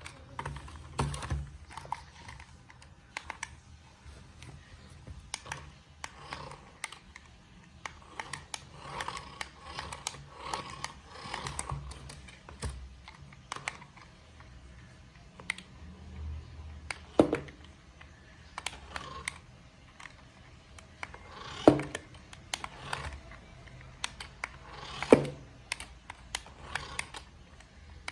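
Irregular light clicks and taps of a plastic toy remote-control car and its parts being handled, with several louder sharp knocks in the second half.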